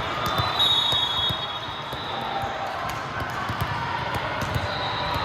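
Basketball bouncing repeatedly on a court floor during play, over a steady background of the game. A few short high squeaks come in the first second or so.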